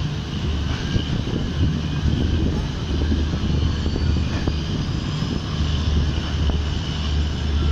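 Passenger train running slowly, heard from inside the coach at an open window: a steady low rumble with a faint high whine.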